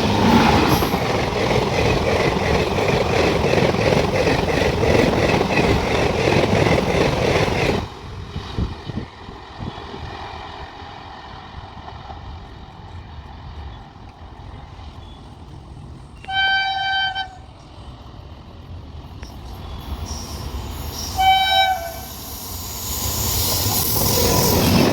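A train passing close by, its wheels rumbling and clattering on the rails, stopping abruptly about eight seconds in. Then an electric locomotive's horn sounds twice, a one-second blast and a shorter one, while the rumble of another approaching train builds toward the end.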